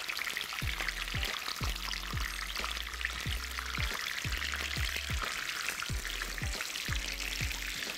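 Chicken pieces frying in hot oil, a steady dense crackle and sizzle as they are turned over. Background music with a steady bass beat.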